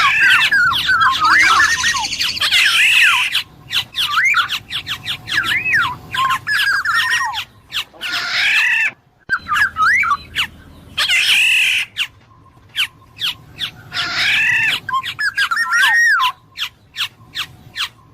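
Black-naped oriole calling: fluty whistled phrases that glide up and down, mixed with harsher squawking notes, in bursts separated by short pauses. Many short sharp clicks come between the calls, most of them in the second half.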